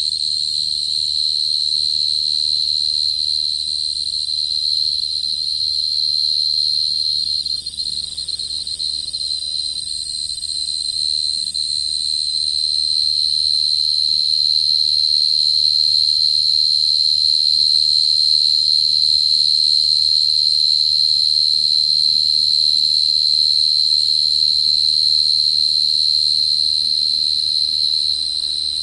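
Dế cơm cricket (Brachytrupes portentosus) calling: one loud, continuous, high-pitched trill that holds a steady pitch.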